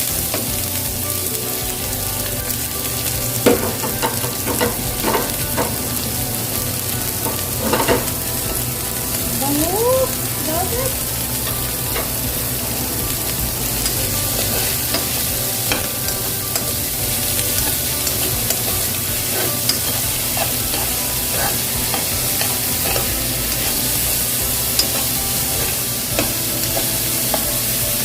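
Chopped onion frying in hot oil with sautéed ginger and garlic: a loud, steady sizzle that jumps up suddenly as the onion goes in. The pan is stirred throughout, with scattered clicks and scrapes of the spatula against the pan.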